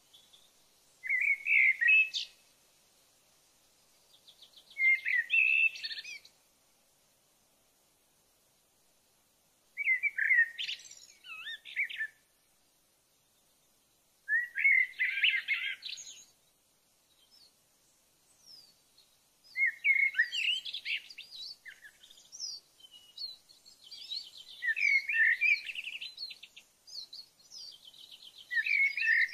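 A songbird singing short, warbling phrases, each about two seconds long, with pauses of a few seconds between them. The phrases come closer together in the second half.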